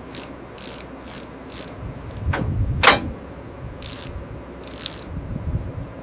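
A series of short metallic clanks and rattles, with a louder clang about three seconds in over a low rumble.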